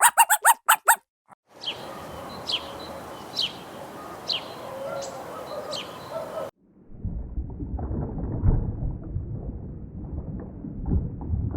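Animal calls cut together: a quick run of about six high calls, then a sharp falling chirp repeated about once a second over a steady hiss. Near the middle this gives way to a low rumbling noise with scattered clicks.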